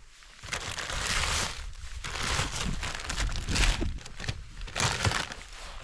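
Plastic rustling and crinkling in irregular bursts with short crackles, like a packet or wrapper being handled.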